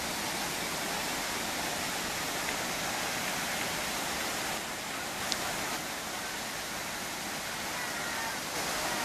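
The Manavgat waterfall, a wide, low cascade on the Manavgat River, pouring in a steady, even rush of water. A single short click comes about five seconds in.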